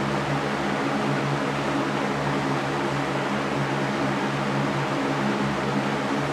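Electric fan running steadily: an even rush of air with a low motor hum beneath it.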